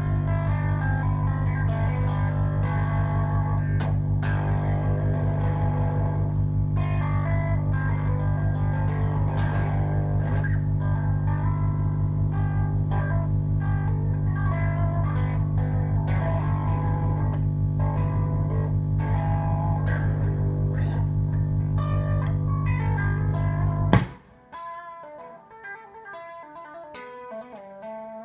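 Electric guitar played through a Mesa Boogie Mark V amp, with a loud low pulsing drone underneath on all channels. The owner says it sounds like a filter; it is an amp fault that comes and goes. About 24 s in, the drone cuts off suddenly with a pop, leaving the guitar playing cleaner and quieter.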